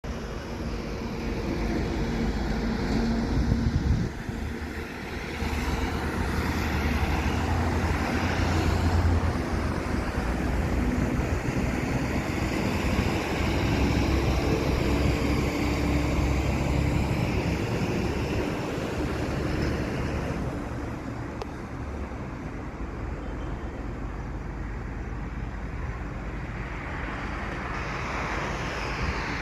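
Truck and road traffic noise: a steady low engine drone with tyre noise, dipping briefly about four seconds in and growing quieter from about twenty seconds on.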